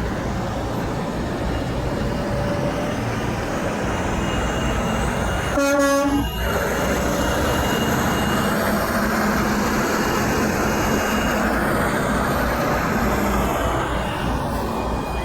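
Semi truck's air horn sounding one short blast about six seconds in, over the steady noise of passing truck traffic.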